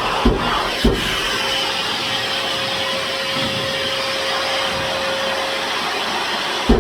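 Cordless Hilti 125 mm angle grinder with a diamond disc grinding a concrete ceiling, with a Hilti VC40U dust-extraction vacuum running: a steady hiss and whine, with a few knocks in the first second and one near the end.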